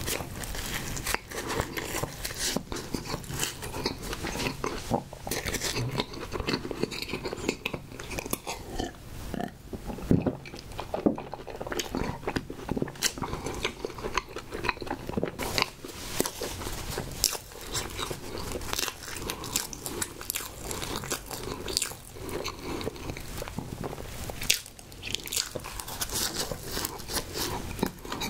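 Close-miked chewing of a Twinkies Snowball, a pink coconut-and-marshmallow-coated chocolate snack cake: a bite, then continuous chewing full of small mouth clicks and smacks.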